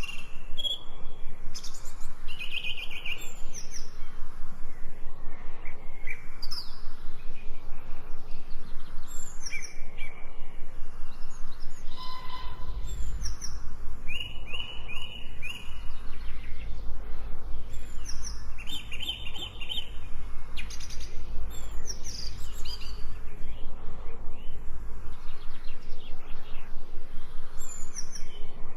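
Several songbirds chirping and calling, with short high tweets and trills overlapping each other. A low rumble runs under them through the middle stretch.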